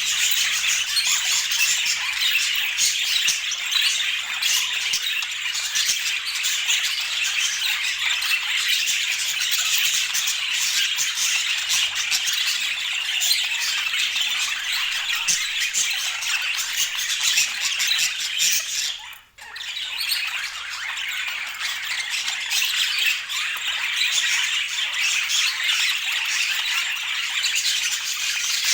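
Budgerigars chattering and squawking continuously in a dense, busy warble, with a brief gap about two-thirds of the way through.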